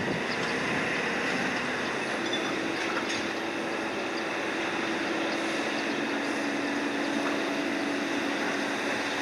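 Cargo ship's deck crane machinery running steadily, with a low steady whine that comes in about two seconds in and holds, as the crane works a load.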